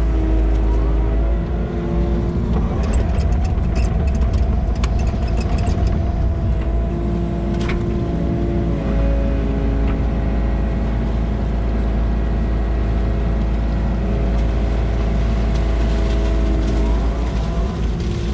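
Tractor engine running steadily while digging pond mud, its pitch dropping and rising a few times as the load changes, with scattered clanks from the work.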